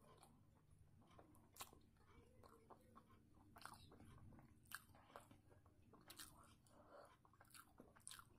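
Faint close-up chewing of a mouthful of rice eaten by hand, with irregular small wet mouth clicks and the soft squish of fingers mixing rice on the plate, over a low steady hum.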